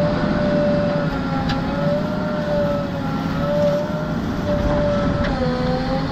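JCB backhoe loader's diesel engine running steadily under work, with a continuous whine over it that wavers slightly in pitch.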